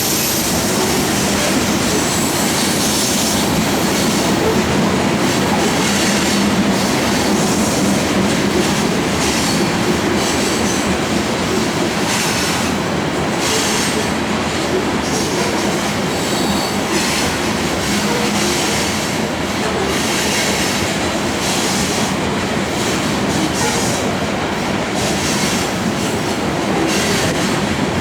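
Freight train of loaded grain hopper cars rolling past, a steady rumble of steel wheels on rail with intermittent high-pitched wheel squeal.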